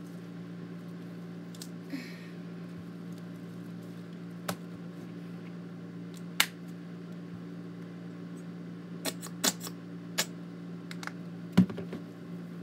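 Slime being played with by hand, giving sharp little clicks and pops every second or two, the loudest near the middle and near the end, over the steady hum of a room air conditioner.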